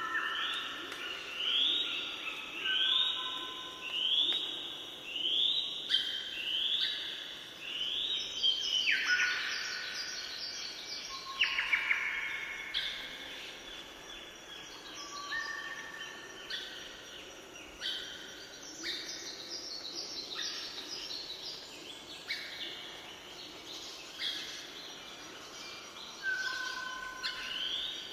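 Birds singing: many short whistled notes repeated about once a second, several birds overlapping, thickest about a third of the way in, with a fainter lower call repeating underneath.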